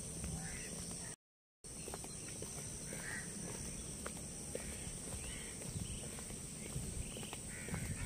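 Birds calling: short calls every second or two over a low rumble, with a steady high hiss. The audio drops out completely for a moment about a second in.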